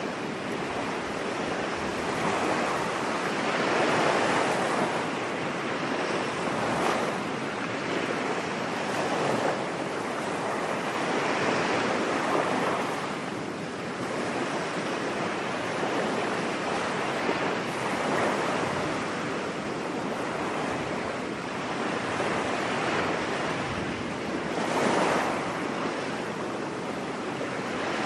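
Ocean waves breaking and washing up on a beach, a steady surf with swells rising and falling every few seconds.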